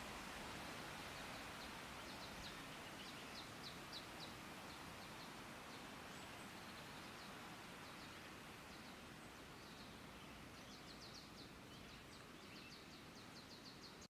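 Faint outdoor ambience with a small bird singing short rapid series of high chirps, several times; the whole sound slowly fades down.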